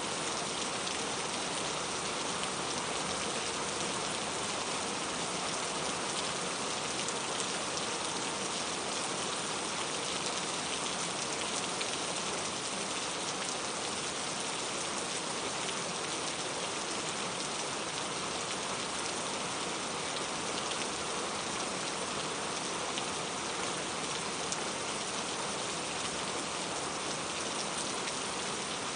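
Steady rain falling, an even hiss of many small drops pattering on a surface, with no change in strength.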